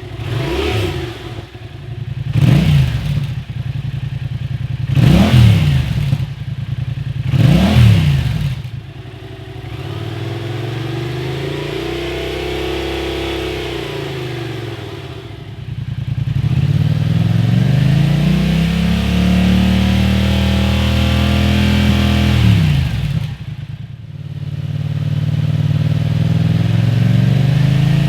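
Yamaha FZ-07's 689 cc parallel-twin engine idling, blipped four times in quick sharp revs, then taken up and down through the revs twice in longer smooth sweeps, the second one louder, before settling back to idle near the end.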